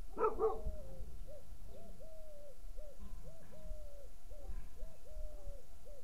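A bird calling over and over with short, low hooting notes in a repeating short-short-long pattern. A louder, harsher call comes just after the start.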